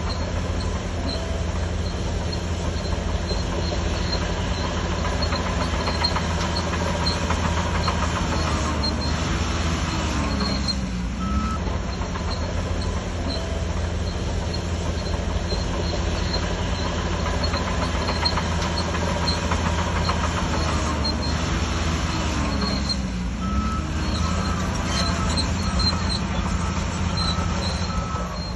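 Shantui DH17C3 crawler bulldozer's diesel engine running under load, with the engine note dipping and then rising again twice, about ten seconds in and again a little after twenty seconds.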